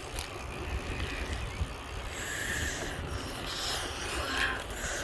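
Wind rumbling on the microphone of a camera carried on a moving bicycle, with a faint hiss of motion.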